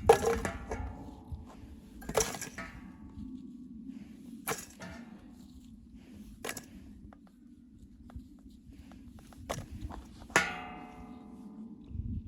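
Hard objects knocking together with a metallic clang that rings briefly: three loud clanks, at the start, about two seconds in and near the end, with lighter clicks and knocks between them, over a steady low hum.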